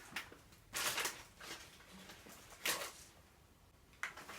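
A few short, faint crisp crackles from potato chips and their foil bag being handled and bitten: honey jalapeño potato chips.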